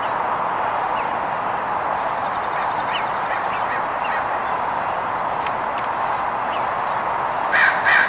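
Two harsh bird calls, caw-like, near the end, over a steady rushing background noise, with a few faint chirps and a short high trill earlier on.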